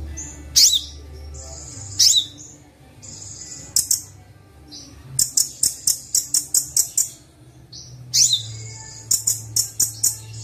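Recorded songbird calls from a sunbird training track: sharp high chirps that sweep downward, short held whistles, and in the second half quick runs of high ticking notes, several a second.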